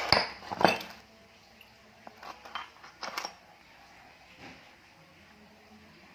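Hard metal objects clinking and clattering against each other in a few short bursts, loudest in the first second, then softer knocks.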